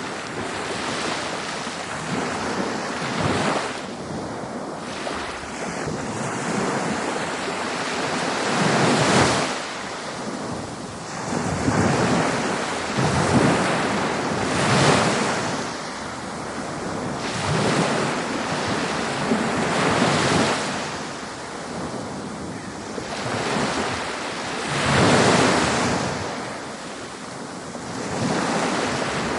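Ocean waves breaking and washing up on a beach, a continuous rush of surf that swells into a louder crash every few seconds.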